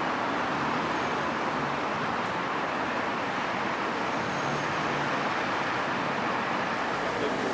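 Steady noise of a train at the station, an even rushing sound that holds level throughout.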